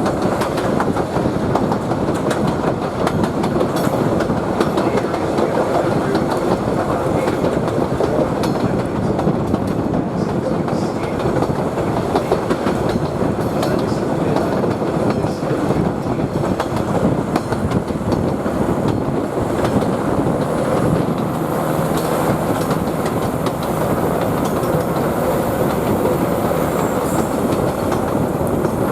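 Queensland Rail 2000 class rail motor running along the track: a steady rumble of wheels on rail with scattered clicks. A faint high whine comes in about two-thirds of the way through.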